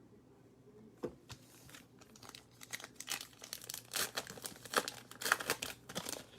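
Cellophane wrapper of a trading-card pack crinkling and tearing as it is opened by hand. The crackle starts about two seconds in and grows louder.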